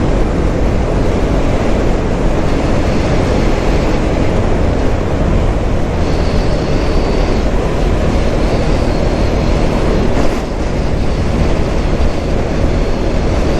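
Motorcycle under way at road speed: steady engine and wind noise heavy on the rider's microphone, with a short dip in loudness about ten seconds in.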